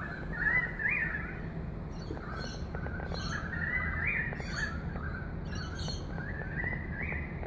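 Birds chirping and chattering in a near-continuous run of warbling calls, with higher, shriller notes breaking in every second or so, over a steady low rumble.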